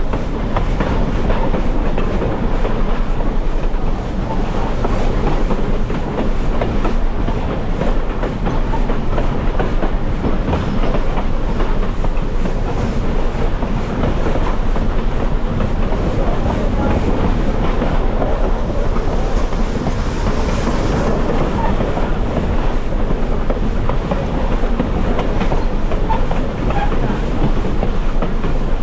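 Heritage passenger train rolling along the track, heard from aboard: a steady rumble with the wheels clicking over the rail joints.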